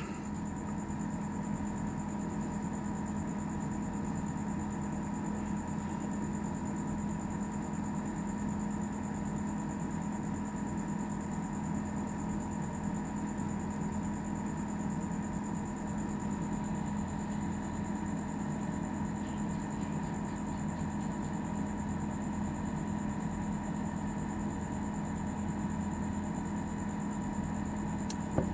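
Steady machine hum with a constant low tone and a thin high whine.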